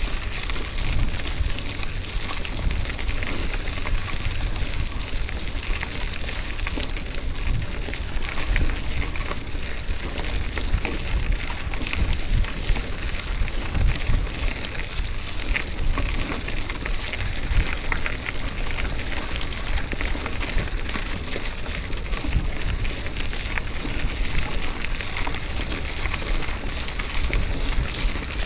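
Wind rushing over the microphone with a steady crackle, typical of a mountain bike rolling over a rough dirt track.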